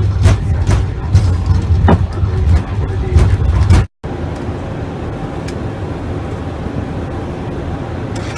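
Airbus airliner landing: a loud, heavy low rumble with many knocks and rattles, as on the runway after touchdown, cutting off abruptly just under four seconds in. A steadier, quieter engine and airflow hum of the aircraft on approach follows.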